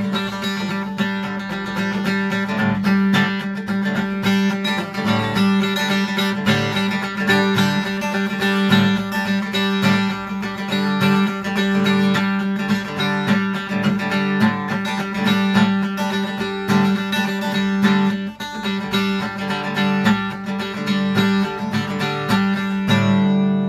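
Instrumental break of a country-style song: guitar strummed steadily without singing.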